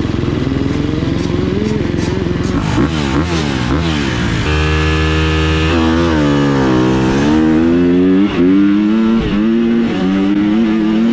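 High-revving motorcycle engine under hard throttle, its pitch climbing, holding high and dropping away several times over the stretch.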